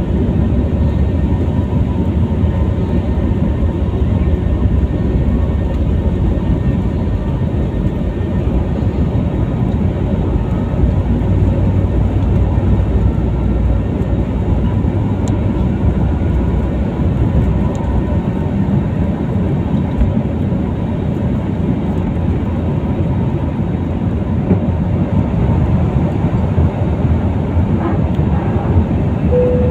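Steady cabin noise of a jet airliner, the even rumble of engines and airflow heard from inside the passenger cabin.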